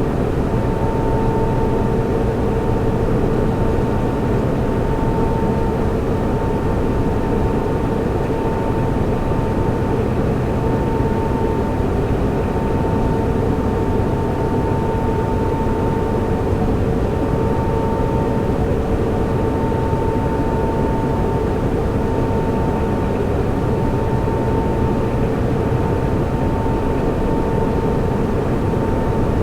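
Server room ambience: cooling fans running in a steady drone, with a constant mid-pitched whine and a lower hum over the rushing air.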